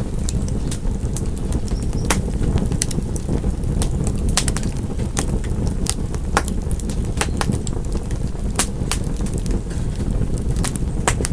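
Wood fire crackling: irregular sharp pops and snaps, several a second at times, over a steady low rumble of burning logs.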